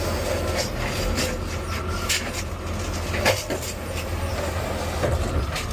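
Side-loader garbage truck heard from inside the cab: a steady low engine hum, with scattered clicks and knocks of rattling cab and body parts.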